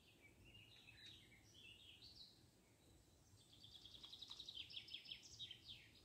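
Faint songbirds: scattered high chirps, then from about three and a half seconds a quick run of repeated high notes that stops just before the end.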